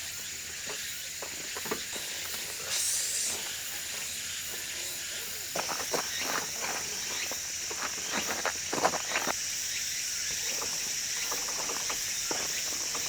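Insects buzzing steadily in a high, even drone, with its pitch shifting slightly about halfway through. Scattered short crunches and clicks in the middle, like steps or handling on a gravel forest road.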